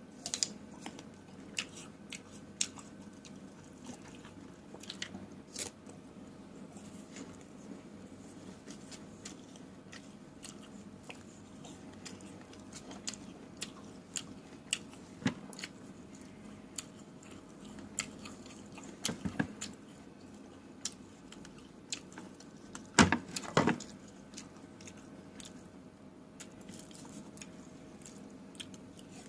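A person chewing and biting into raw fruit close to the microphone: scattered wet smacks and crunchy clicks, loudest in a pair of bites about three-quarters of the way through.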